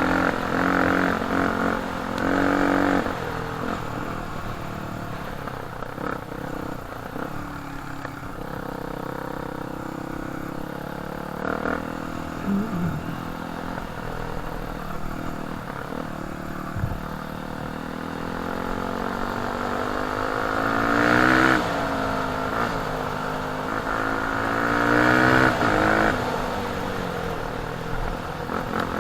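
Enduro dirt bike engine running under way, its revs rising and falling with the throttle, rising to two louder high-rev pulls in the second half.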